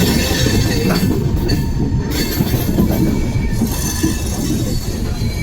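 Amrit Bharat Express passenger train running on the rails: a steady low rumble of wheels on track, with a few faint clicks.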